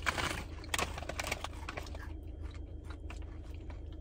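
Crunching and chewing of Cheetos corn puffs, in a burst of crackles over the first second and a half, then softer, sparser crunches, over a steady low hum.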